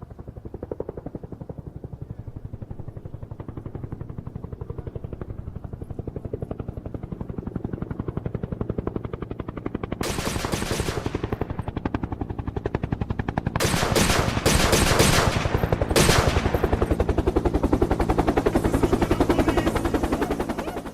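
Rapid, continuous automatic gunfire, many shots a second. It grows louder, with harsher volleys about halfway through and again from about two-thirds of the way in.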